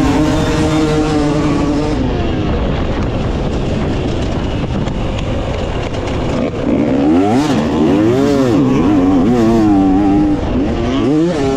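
Two-stroke dirt bike engine, a 2018 Yamaha YZ250X single, being ridden hard. It holds steady on the throttle at first. After about two seconds there is a rougher stretch with no clear pitch, then from about seven seconds in the revs rise and fall several times through the gears and jumps.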